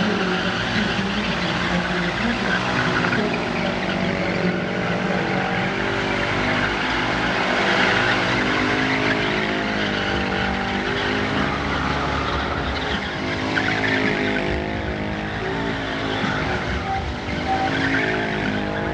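Stunt motorcycles running and revving, with tyres skidding and squealing as the riders perform tricks.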